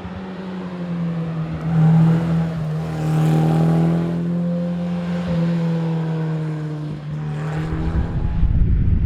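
Alpine A110 rally car's engine running at a fairly steady pitch, with small rises and dips as the throttle changes. From about eight seconds in, a rough low rumble joins it.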